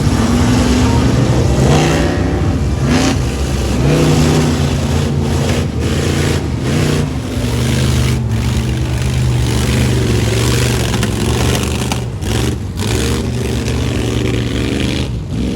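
Big truck engine running hard and revving, its pitch climbing and dropping several times.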